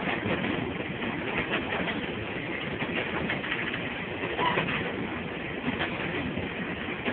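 Freight train cars rolling past close by, their wheels clacking over jointed rail, with a brief squeak about four and a half seconds in.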